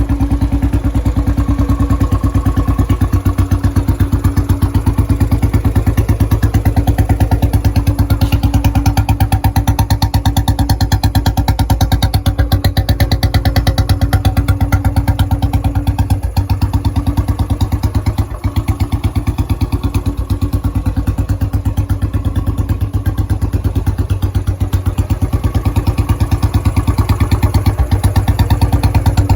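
Motorcycle engine idling on a cold start through a Punjabi long bottle (dholki) exhaust silencer: a loud, steady, even beat of exhaust pulses.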